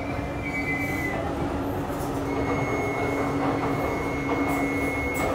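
Passenger train running, heard on board: a steady rumble and hum. A thin high whine fades about a second in, and another steady high whine sounds from about two seconds in until near the end.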